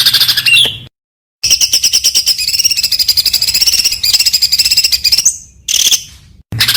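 Songbird singing a dense string of very fast, high-pitched repeated notes, in several runs broken by sudden short silences about a second in and near the end.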